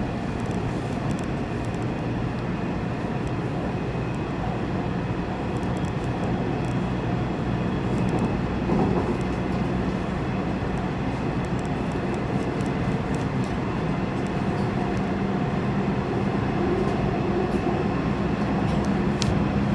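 Electric Airport Railroad (AREX) commuter train running steadily: a continuous rumble with a low hum and occasional faint clicks.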